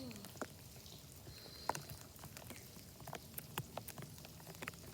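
Rain: irregular sharp raindrop ticks landing close to the microphone, over a faint steady hiss of rainfall, as drops strike the plastic Ziploc bag sealing the recording iPad.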